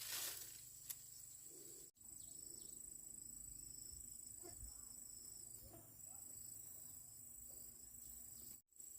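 Faint, steady high-pitched chirring of insects such as crickets, cutting out briefly twice.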